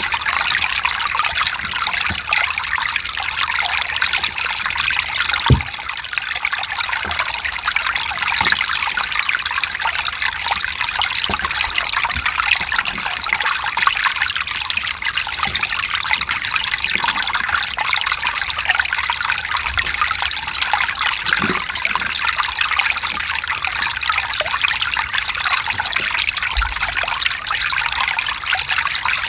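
Mountain stream flowing and trickling over rocks in a steady, even rush of water, with an occasional faint low knock or plop.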